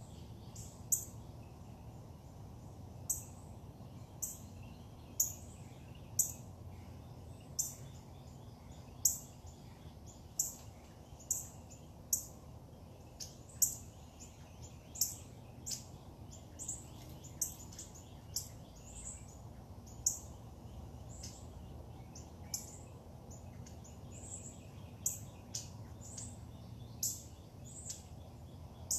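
A bird repeating short, high, sharp chirps about once a second, over a steady low background hum.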